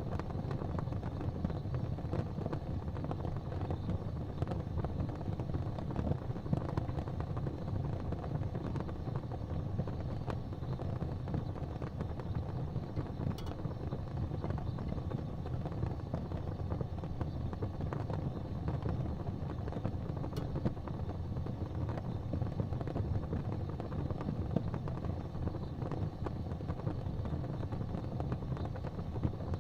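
Wood fire crackling in a fireplace: scattered small pops over a steady low rumble.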